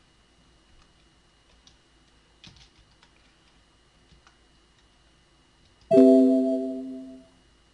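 Faint computer-keyboard typing, then, about six seconds in, a loud electronic alert chime: several notes struck together that fade out over about a second and a half.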